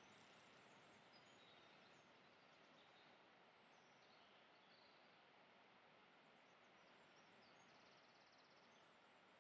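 Near silence: a faint even hiss of outdoor background with a few small, faint bird chirps scattered through it.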